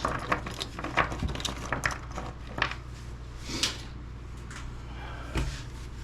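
Small hard plastic objects, such as power adapters and small devices, clicking and knocking as they are handled and set down, with a firmer knock near the end. A steady low hum runs underneath.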